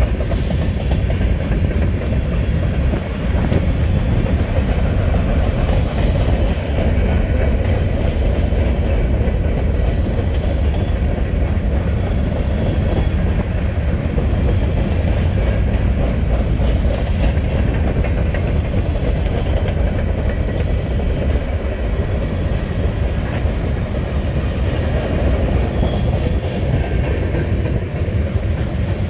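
Freight train rolling past: a steady, loud rumble of railcar wheels on the rails.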